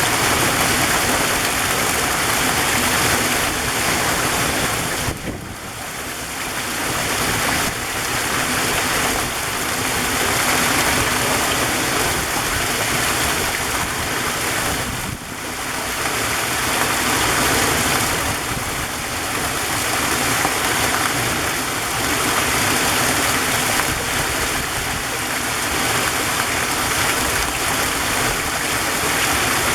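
Waterfall rushing as a steady wash of falling water, with brief dips in level about five seconds in and again about fifteen seconds in.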